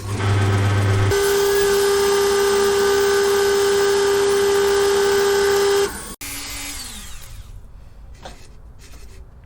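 Power tool spinning a leather burnishing wheel lightly over oiled wood: a steady, high-pitched run for about five seconds that cuts off, followed by a short falling whine.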